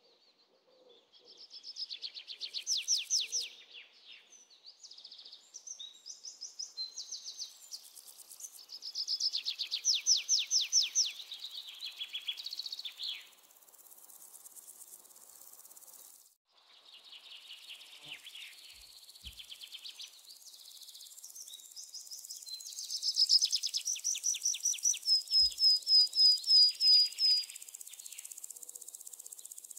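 Birds singing in phrases of rapid repeated chirps and trills, several phrases with short pauses between them. A steady high insect hiss runs under the second half.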